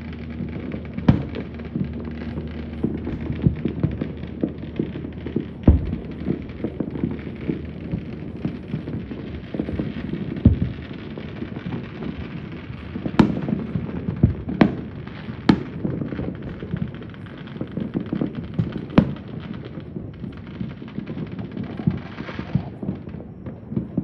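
Fireworks and firecrackers going off all over the city at once: a continuous din of bangs and crackling, with louder single sharp reports now and then, several close together a little past halfway.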